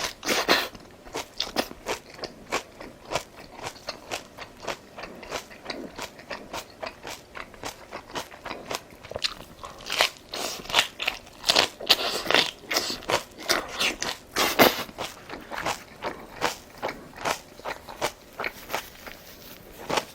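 Close-miked chewing and crunching of food, a steady run of irregular crisp bites and crackles that grows louder and denser about halfway through.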